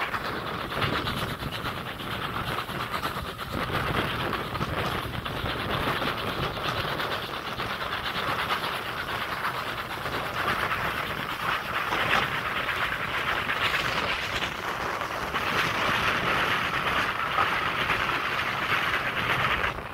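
A moving passenger train heard from a carriage window: the steady running noise of the coach's wheels on the rails, with air rushing past.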